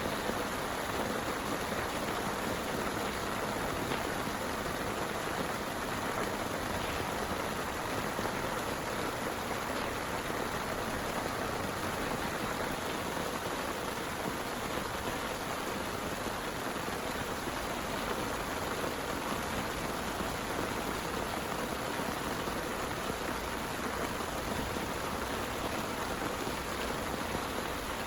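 Heavy rain falling: a steady, even hiss with no change or break.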